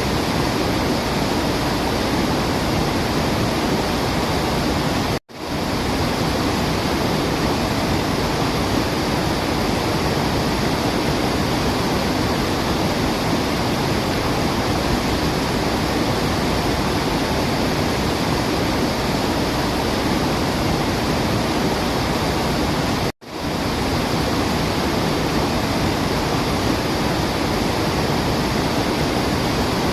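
Steady rushing water, like a waterfall, with no birdsong audible. It cuts out for an instant twice, about five seconds in and again about 23 seconds in, then swells straight back.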